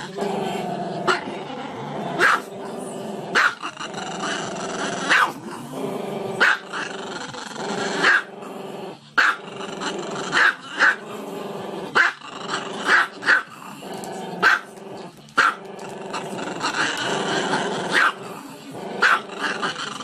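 Small black-and-tan dog howling with its muzzle raised: a long, continuous, wavering vocal broken by short sharp yips or barks, irregularly, about once a second.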